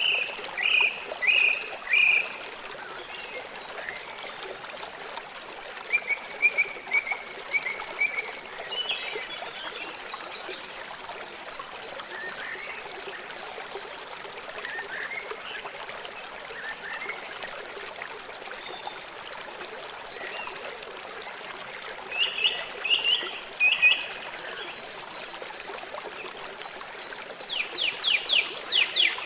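Steady rushing of a running stream, with groups of short high chirping calls over it and a fast run of about ten quick notes near the end.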